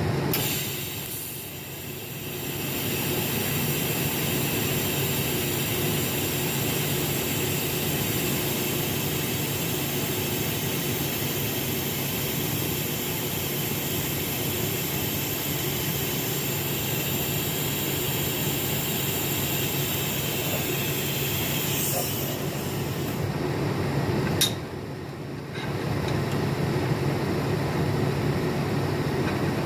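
TIG welding arc on a stainless steel exhaust dump tube: a steady hiss over a low hum, stopping with a click about 24 seconds in and starting again a second later.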